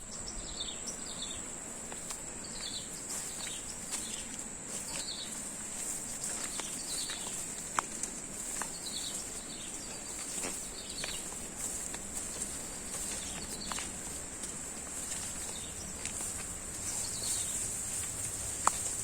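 Outdoor rural ambience: a steady high-pitched insect drone with repeated short, falling bird chirps over it, and a few sharp clicks.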